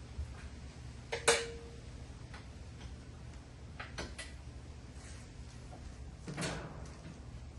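Tools and metal parts being handled: scattered clicks and knocks, the loudest about a second in with a brief ring, and a duller knock near the end.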